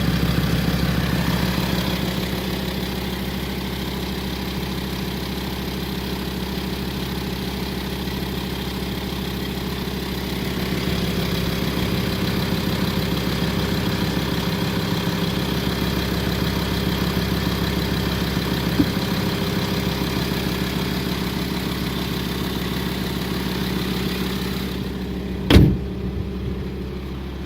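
Volkswagen Touareg 2.5 TDI five-cylinder diesel idling steadily with a light rattle from its gear drive, which the owner calls a disease common to all these engines. About 25 seconds in there is one sharp knock, and after it the engine sounds duller.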